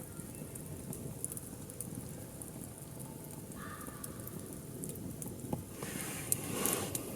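Wood fire burning in a LOGOS Pyramid TAKIBI M fire pit, crackling with scattered sharp pops. A louder rushing noise swells near the end.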